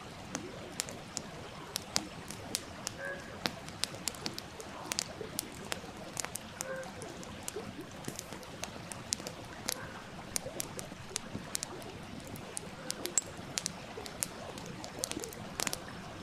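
Wood fire crackling with sharp, irregular pops, several a second, over the steady rush of a stream.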